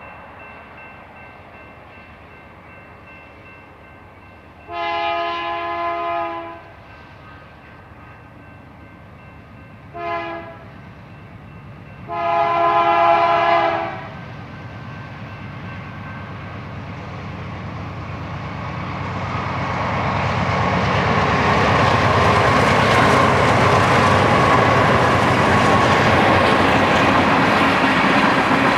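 BNSF freight train's diesel locomotive horn sounding three chord blasts, long, short, long, over the low rumble of the approaching train. The train then comes close and passes, its engine and wheel-on-rail noise growing loud and staying steady.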